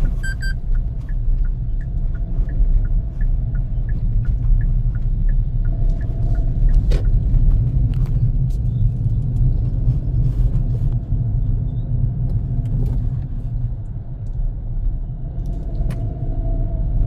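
A car driving, its engine and tyre noise making a steady low rumble. A faint rapid ticking, about three a second, runs through the first three seconds.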